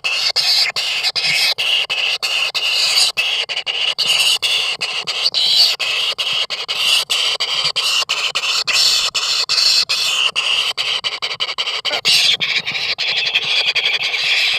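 Kingfisher chicks calling shrilly, a continuous high squealing chorus broken by many brief gaps.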